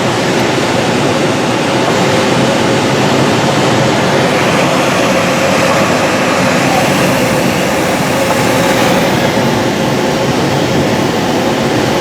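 Steady rushing airflow noise inside a motor glider's cockpit, gliding with its engine switched off, with a faint steady tone running under it.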